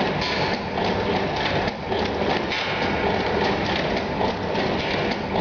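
Automatic packaging machine running, a steady mechanical clatter with a regular repeating beat.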